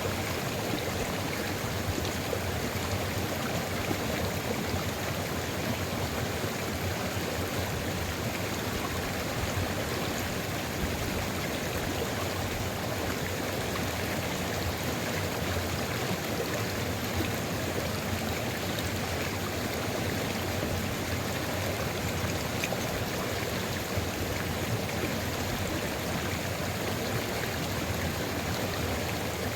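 Sulfur river flowing steadily over its bed: a continuous even rush of running water with no breaks or changes.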